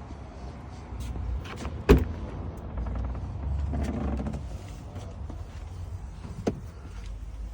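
2022 Ford F-250's 6.2-litre V8 running with a low rumble that swells for a moment in the middle, with a sharp knock about two seconds in and a fainter one later.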